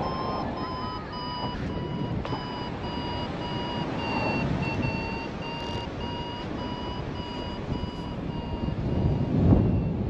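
Paragliding variometer beeping in short even tones, about two to three a second, its pitch sagging slightly and rising again: the climb tone that signals rising air. Wind noise on the microphone underneath, louder near the end.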